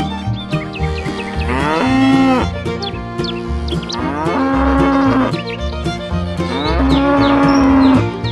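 Cow mooing three times, each moo about a second long with a rising start, over background music with a steady beat.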